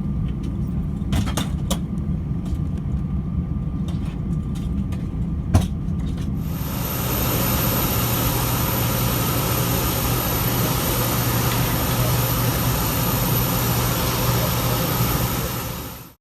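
Steady low rumble of an Airbus A319 after landing, with a few sharp clicks; about six seconds in, a louder steady rushing noise with a low hum takes over and runs until the sound fades out.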